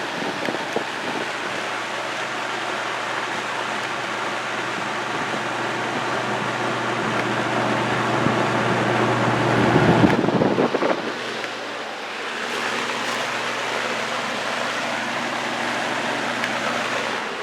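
Toastmaster box fan running on high speed: a steady, pretty loud rush of air over a low motor hum, swelling louder for a moment about ten seconds in.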